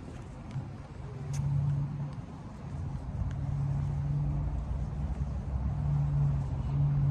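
Car engine running nearby, a low steady hum that grows louder after about a second, with a few faint clicks over it.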